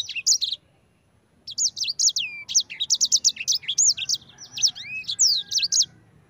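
Sanger songbird singing a rapid, continuous run of high, sharply slurred chirps and trills. It breaks off about half a second in, resumes about a second later, and stops near the end.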